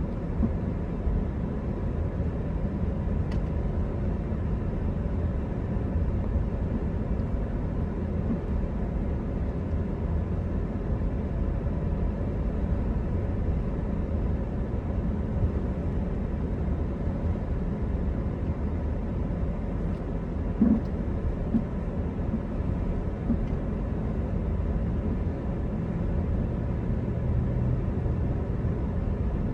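Steady low rumble of a vehicle on the move, with a faint steady hum and a couple of small knocks about two-thirds of the way in.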